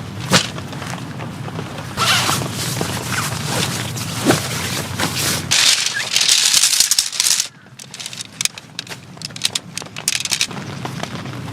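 Irregular clicks and knocks over the patter of rain. About five and a half seconds in, a louder hiss starts, then cuts off sharply after about two seconds, leaving quieter scattered ticks.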